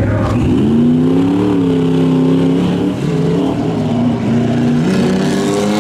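Stock-class pickup truck engine revving hard. It climbs in pitch about half a second in, holds high, eases off near the middle and climbs again near the end.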